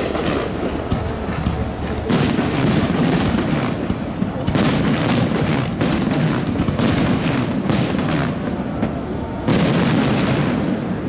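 Fireworks display: aerial shells bursting one after another in quick, irregular succession, over a steady background of crowd voices.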